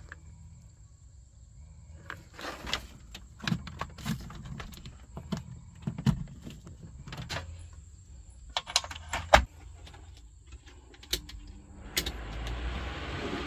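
Scattered knocks, clicks and clatters of objects being handled and set down, a few of them sharp and loud. About twelve seconds in, a steady rushing noise with a faint hum comes on and keeps going, like an electric fan starting up.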